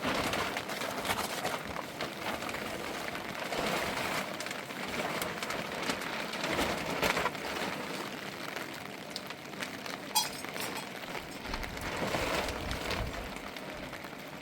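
Rain falling on surfaces, with scattered small knocks and a sharp clink about ten seconds in.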